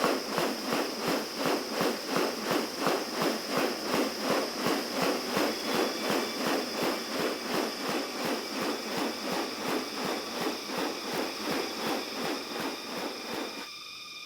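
Rainforest ambience: a regular pulsing sound at about three beats a second under a steady high insect-like buzz. The pulsing stops shortly before the end.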